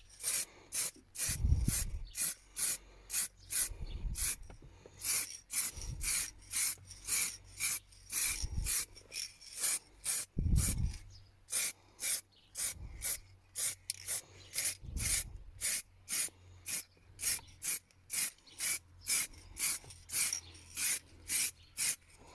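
Aerosol can of leather and vinyl spray paint sprayed in short, repeated bursts, about two a second, with a few low handling bumps in between.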